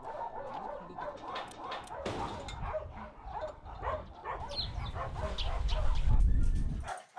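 Several dogs barking, yipping and whimpering over one another. A low rumble builds from about two seconds in, becomes the loudest sound, and cuts off abruptly near the end.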